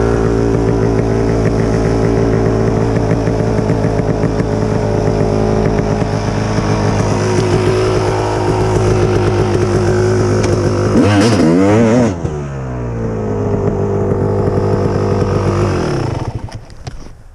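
Kawasaki KX250 two-stroke single-cylinder dirt bike engine running steadily, with a quick rev up and down about eleven seconds in. It then cuts out near the end.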